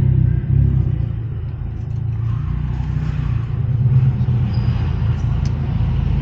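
Honda Civic Type R engine running at low revs with a steady low rumble as the car creeps forward to park.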